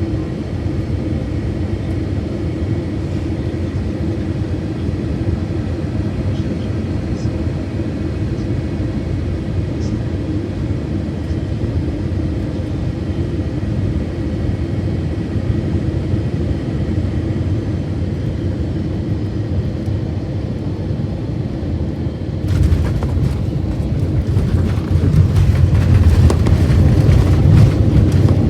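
Steady cabin noise inside an Airbus A321-200: a constant low hum with a few steady tones. About 22 seconds in it turns suddenly louder into a deep, rough rumble with more hiss.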